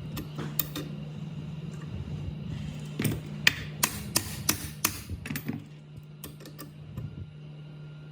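A quick run of sharp metallic taps and clicks, bunched from about three to five and a half seconds in, over a steady low hum: tools and metal parts being handled at a workbench.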